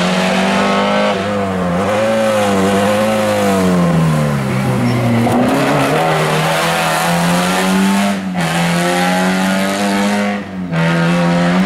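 Historic rally car's engine run hard, loud, its pitch rising and falling as the driver works the throttle and gears. The revs sag about four seconds in, then climb again, with two brief breaks in the sound about eight and ten and a half seconds in.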